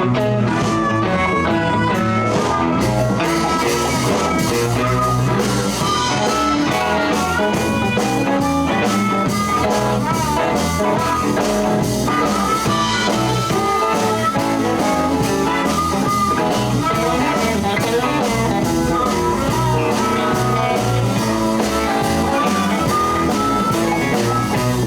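Live blues band playing an instrumental shuffle in E, with guitar and drum kit, before the vocals come in.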